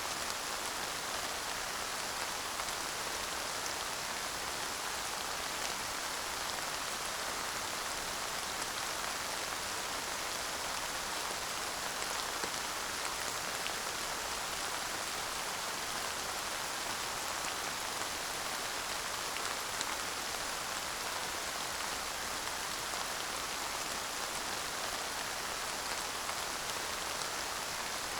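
Steady light rain falling, without thunder: an even hiss of rain with many small drop ticks.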